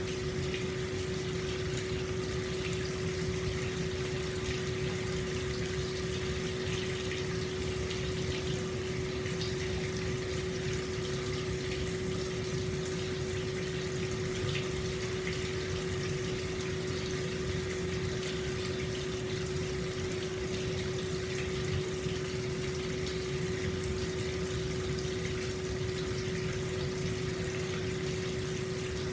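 Hot spring water flowing steadily into an open-air bath, an even splashing rush that does not change, with a steady hum held underneath.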